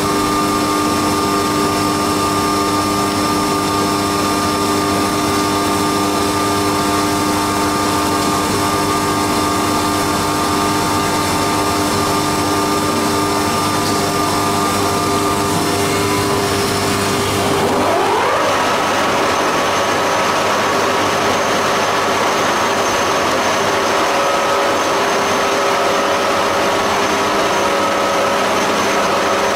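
Haas CNC milling machine running, a steady machine whine over a noisy haze during fourth-axis cam machining. About 18 seconds in, a pitch rises quickly and settles into a higher steady whine.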